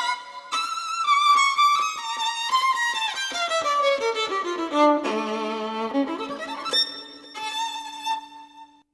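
Violin playing a melody that steps downward over a few seconds, then holds a low sustained note beneath higher ones, fading out near the end.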